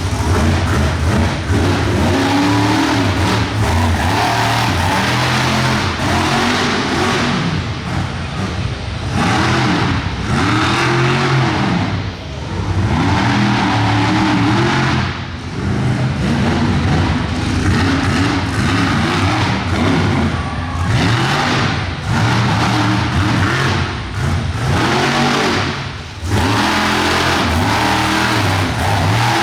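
Monster truck engine revving hard over and over, its pitch climbing and falling in repeated surges, with a few brief let-offs between runs of throttle.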